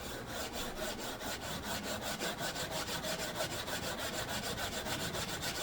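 Sanding the Brazilian rosewood fingerboard of an old guitar with its frets removed: abrasive rubbing against the wood in quick, even back-and-forth strokes, levelling the board and taking out worn grooves.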